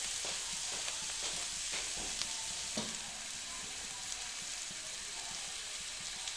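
Chopped salted mustard greens and ground pork sizzling steadily in a wok, with a few light taps of a metal spatula in the first three seconds.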